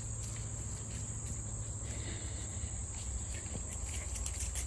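Steady, unbroken high-pitched chirring of an insect chorus, such as crickets or katydids in late-summer vegetation, over a low steady rumble.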